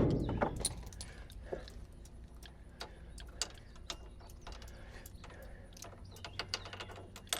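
Scattered light metallic clicks and clinks of hand tools working on a threaded fitting, at an uneven pace, with a small cluster of clicks near the end.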